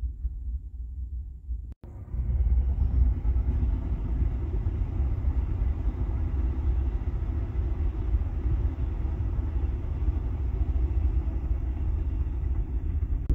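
LNER Azuma passenger train passing on the near line: a steady rumble and rush of wheels on rail that begins abruptly about two seconds in, after a faint low rumble.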